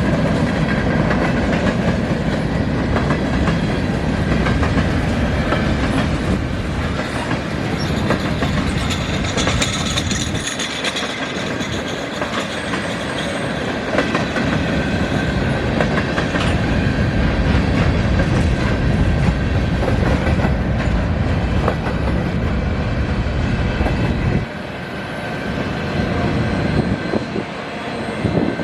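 A Canadian National freight train's cars roll past, their wheels clacking over the rail joints in a steady heavy rumble, with a thin high wheel squeal over it. The deep part of the rumble drops away suddenly about ten seconds in, and again near the end.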